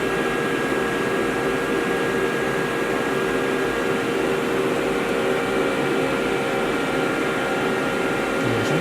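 Old CNC machine running with a steady mechanical hum and a few steady whining tones while its axes slowly travel back to their home position on a zero return.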